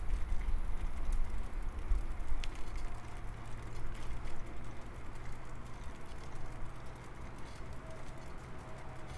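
Rolling noise of a bicycle ride with wind rumbling on the microphone, heavier for the first three seconds and then easing, with a few faint clicks.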